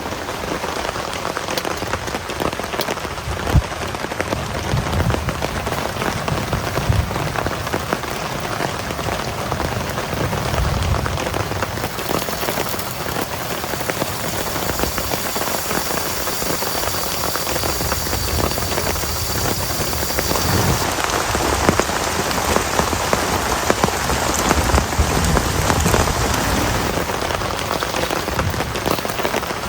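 Heavy rain falling steadily, a dense patter of drops with now and then a single louder drop.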